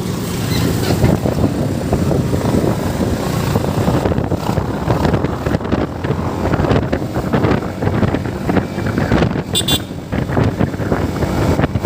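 Motorcycle engine running under way, with wind buffeting the microphone throughout. A short high-pitched sound cuts in briefly about nine and a half seconds in.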